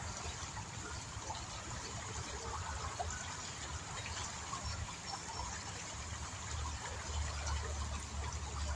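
Shallow river water running and trickling, with small splashes, and a low rumble that grows stronger near the end.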